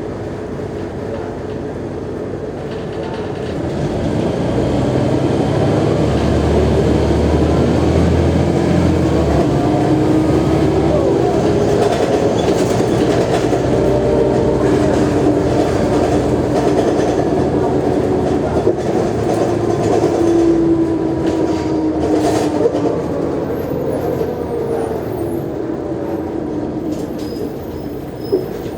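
Mercedes-Benz O345G articulated bus's diesel engine pulling hard. Its pitch climbs and drops again and again as it works up through the gears. It gets louder a few seconds in, eases off near the end, and a couple of short knocks follow. This is an ageing engine whose wear the recordist says can be heard.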